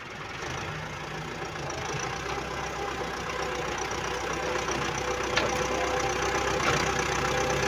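An engine running steadily, growing gradually louder, with one short click about five seconds in.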